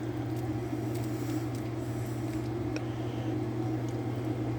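Air-conditioning unit running with a steady low hum, with a few faint clicks over it.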